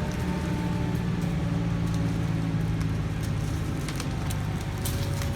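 An engine running steadily with a low hum, with scattered short sharp cracks and snaps over it.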